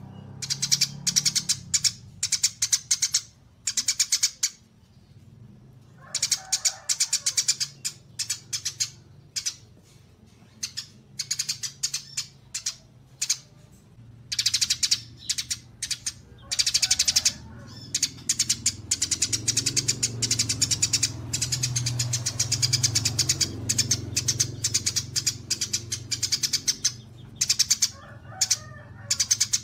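Small songbirds chirping in fast, chattering bursts of high notes, each burst lasting a second or two with short pauses between, over a faint low hum.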